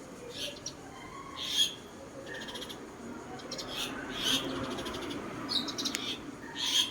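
A bird singing: short phrases of high chirps alternating with quick rattling trills, the loudest notes coming about one and a half seconds in, in the middle, and near the end.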